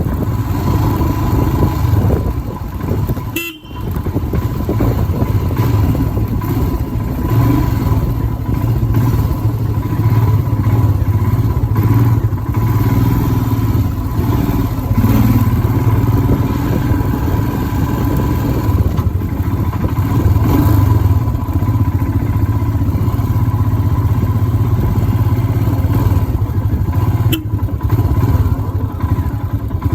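Royal Enfield Himalayan's single-cylinder engine running steadily under way on a ride, with horns honking in traffic. The sound briefly drops out about three and a half seconds in.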